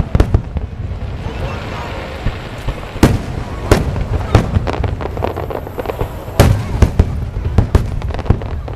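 Aerial fireworks bursting: an irregular run of sharp bangs over a continuous low rumble, with the heaviest bangs about three seconds in and again past the halfway point.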